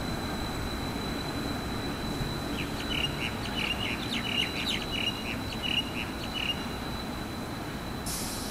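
A small bird calling a quick run of about a dozen short high chirps, roughly three a second, for about four seconds. Under it is a steady low rumble of distant traffic and rail noise.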